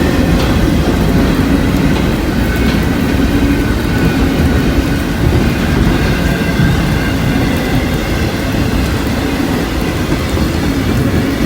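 Freight train rolling past close by, a steady rumble of cars on the rails.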